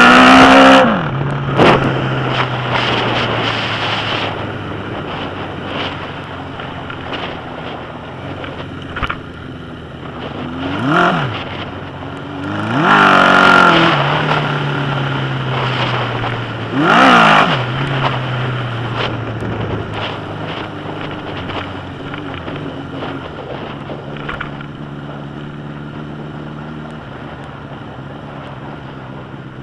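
1981 Suzuki GS1000's air-cooled inline-four on a straight pipe, revved sharply several times with the pitch climbing and falling back, settling to a steady low run between the revs.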